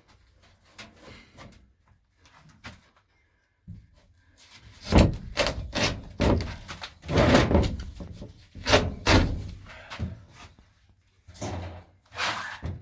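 A run of sharp knocks and bangs from parts and panels being handled inside a stripped-out van body. A few light knocks come first, then a dense series starting about four seconds in, and two more bangs near the end.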